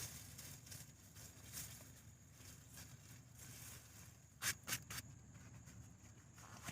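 Quiet rustling of sweet potato vines and foliage being moved by hand, with two brief crackles about four and a half seconds in.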